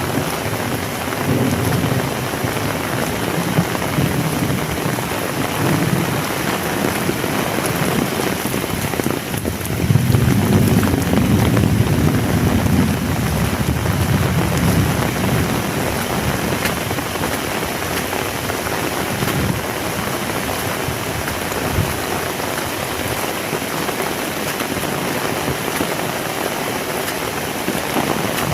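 Heavy rain falling steadily in a dense hiss. A deeper low rumble swells up near the start and again for several seconds about ten seconds in.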